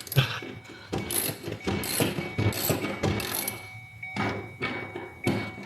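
Ratchet wrench clicking in short back-and-forth strokes as a car seat's mounting bolt is worked loose.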